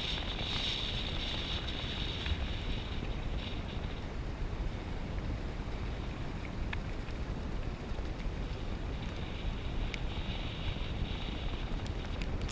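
Wind buffeting a moving GoPro's microphone: a steady low rumble with a hiss over it and a few scattered small clicks.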